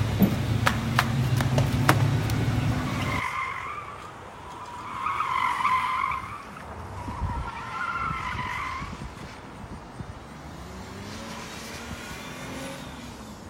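Car engine running for about three seconds, then tires squealing three times as the car drives hard.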